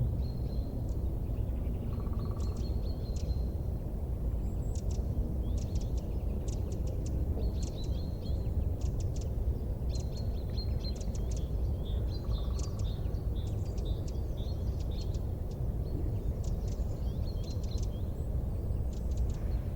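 Steady low rumbling noise with birds calling over it: repeated high whistled notes and quick clusters of short chirps throughout.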